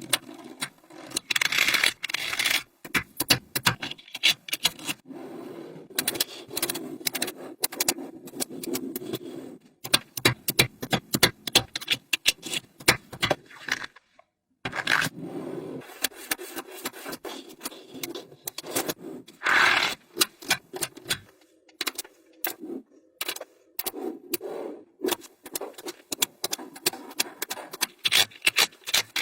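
Small magnetic balls clicking, rattling and scraping against each other as they are handled and snapped together, in quick irregular clicks with short scraping runs.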